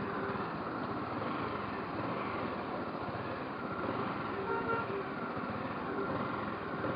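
Steady road and engine noise from riding a motorcycle in traffic, with a short vehicle horn toot about four seconds in.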